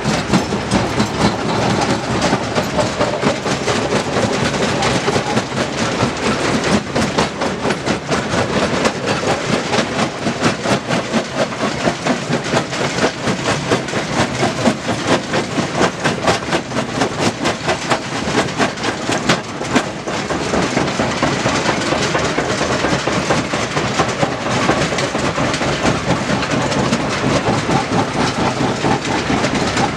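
Heavy stone-working machinery running, with a continuous dense clatter of rapid knocks and rattling that never lets up.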